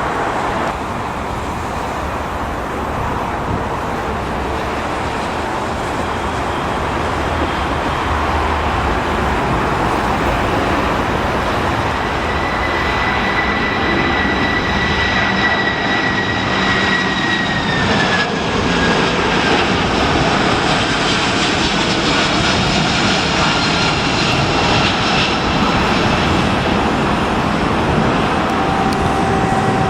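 Jet airliner engines running loudly as the aircraft passes, with a high whine that drops in pitch about two-thirds of the way through.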